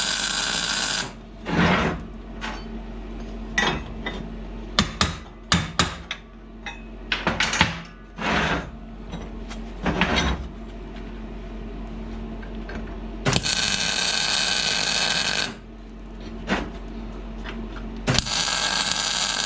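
MIG welder striking short tack welds on steel flat bar, each a crackling hiss: a brief one at the start, a longer one of about two seconds past the middle, and another near the end. Between them, steel pieces knock and clank as they are handled and set in place, over a steady low hum.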